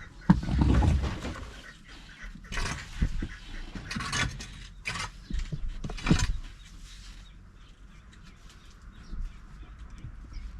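Farm poultry calling among scattered short knocks and rustles, busiest in the first six seconds and thinning out after that.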